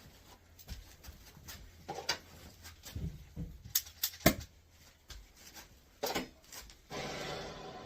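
Scattered light knocks and clicks of work-site handling, then a steady hiss that starts about seven seconds in.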